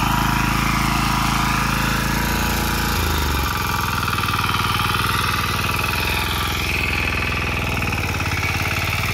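Tractor engine running steadily; about three seconds in its speed drops and it settles into a lower, steady run.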